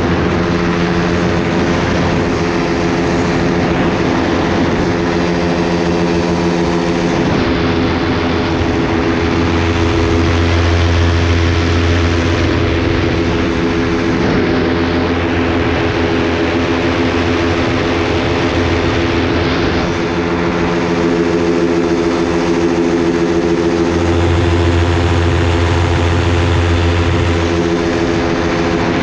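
Propeller aircraft engine running steadily at constant power, a continuous drone with an unchanging pitch.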